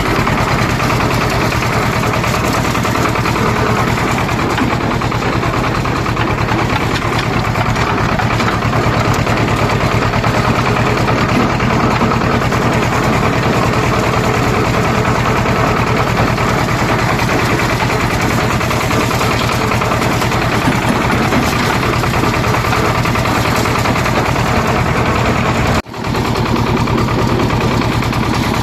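Swaraj 724 tractor's diesel engine running steadily under way, loud and close, with a brief drop-out a little before the end.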